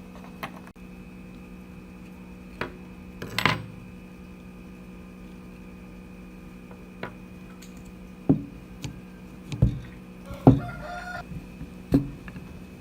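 Metal parts of an old nail gun knocked and set down during restoration work: a few separate sharp clinks and knocks, over a steady hum.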